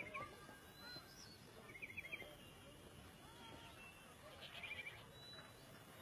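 Faint birdsong: short, quick trills of chirps repeating every couple of seconds, with a few softer whistled notes, over low background noise.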